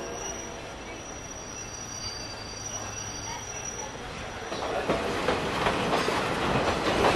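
Excursion passenger train rolling on the rails: a steady rumble with a faint high whine at first, then a louder rattle and clacking of wheels over the track from about halfway through.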